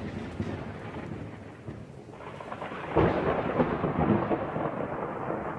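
Thunder rumbling over falling rain, with a fresh, louder peal of thunder breaking about three seconds in.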